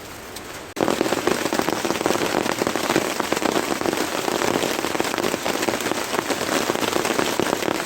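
Heavy rain falling, a dense patter of drops striking a surface close by. It starts abruptly under a second in and keeps up steadily.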